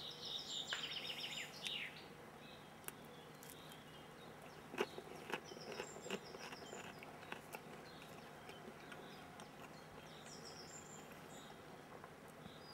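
Small songbirds chirping faintly in quick bursts of high notes, at the start and again twice later, with a few light clicks and taps in between.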